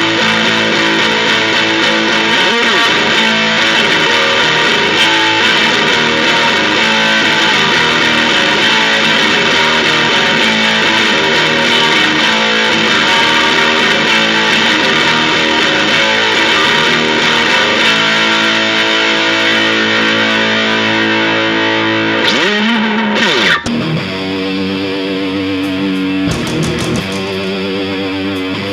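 Distorted electric guitar playing grunge-style rock. About 23 seconds in it switches abruptly to a thinner, sparser passage.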